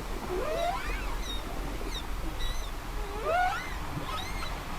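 Whale song: two rising, bending calls, one about half a second in and another about three seconds in, with fainter short high squeaks between them, over a steady low wash of sea.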